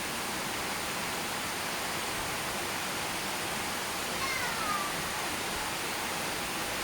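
Steady hiss of rainfall. About four seconds in, a brief falling animal call, under a second long, sounds once over the rain.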